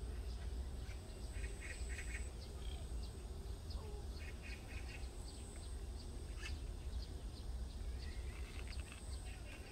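Birds calling outdoors in short, quick runs of repeated notes, over a steady low rumble.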